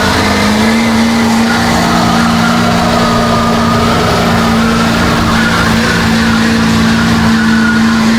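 Mega truck engine held at high revs in one loud, steady note while pulling a weight sled.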